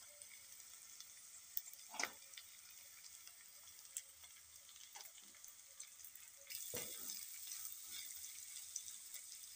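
Shredded carrots, onion and chilli frying in mustard oil in a kadai: a soft, steady sizzle with a few short scrapes of a metal spatula against the pan. The sizzle grows louder about two-thirds of the way through.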